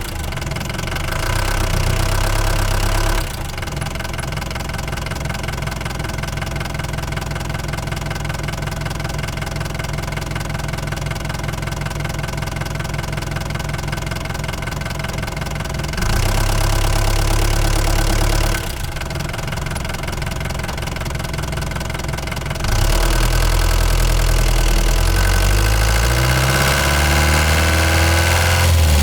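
Ford Transit Mk5 van's engine running on the move, its loudness and pitch shifting a few times. Near the end it rises in pitch as the engine speeds up.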